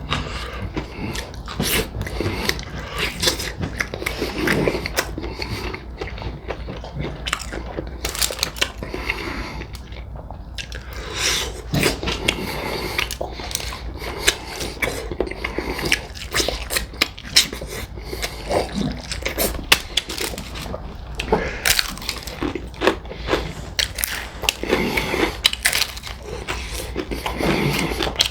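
Extra crispy fried chicken legs and thighs being bitten and chewed: repeated, irregular crunches of the fried crust, with chewing between bites.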